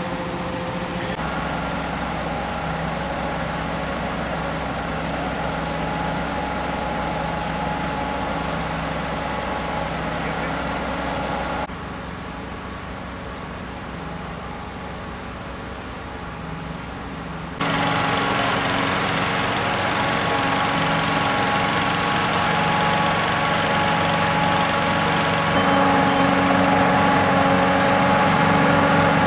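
Fire engines idling steadily, heard in several shots joined by abrupt cuts: quieter in the middle, louder in the last third.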